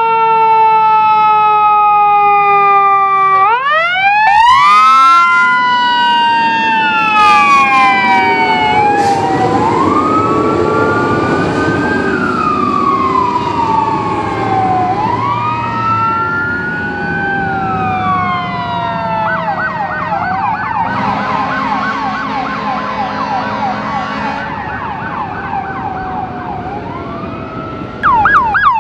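Emergency vehicle sirens responding code 3, several at once: long wails that fall and rise every few seconds, joined by a rapid yelp in the middle. Near the end a different, faster-warbling siren cuts in abruptly.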